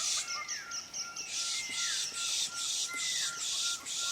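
A chorus of wild birds calling: one short whistled note repeated about four times a second, another whistle gliding downward about once a second, and harsh rasping bursts over them.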